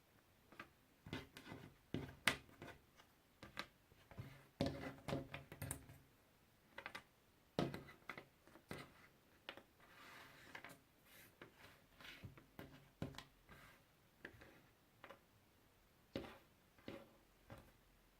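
Puzzle pieces being handled and set down: faint, irregular small clicks and taps, with a soft rustle about ten seconds in.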